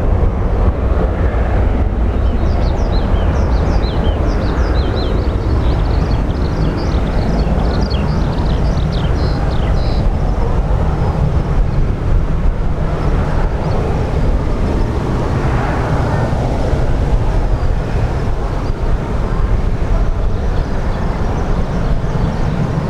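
Boeing 737-800's CFM56-7B jet engines running at takeoff power: a steady, loud, low-pitched roar. Short high chirps come over it between about 3 and 10 seconds in.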